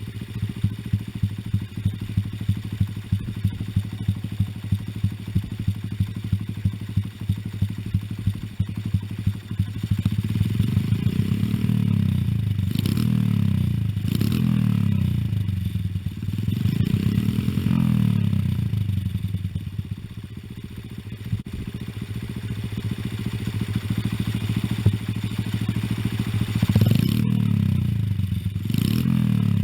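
An 88 cc single-cylinder Honda Magna motorcycle engine with a microcontroller 'Dodosuko' Harley-sound system and a variable-volume muffler. It idles with a pulsing, loping beat meant to imitate a Harley V-twin, then is blipped up and down in revs several times from about a third of the way in.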